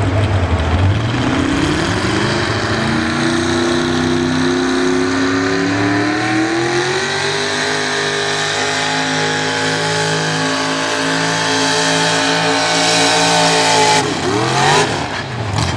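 Super stock pulling truck's engine revving up over several seconds, held at high rpm under load, then the throttle cut sharply near the end, the pitch falling away.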